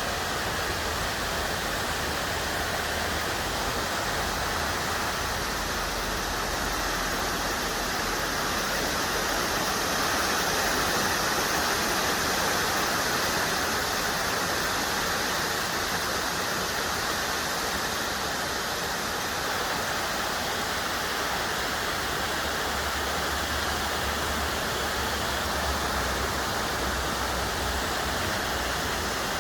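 Swallow Falls waterfall: water pouring over the rocks in a steady, continuous rush.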